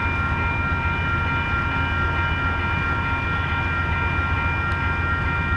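Diesel locomotive of the Coast Starlight running steadily: a low engine rumble under a steady high-pitched whine made of several tones.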